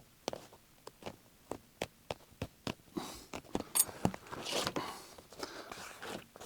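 A sharp blade cutting through the stitching of a car seat cover: irregular small sharp ticks as the threads part, then rustling and scraping of the cover material as it is handled in the second half.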